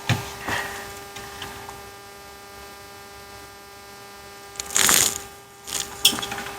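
Steady electrical hum with a faint pitched whine, and a short scratchy burst of noise about five seconds in.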